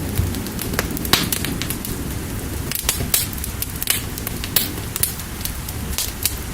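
Fire crackling, with irregular sharp pops every fraction of a second to a second, over a steady low rush of rain.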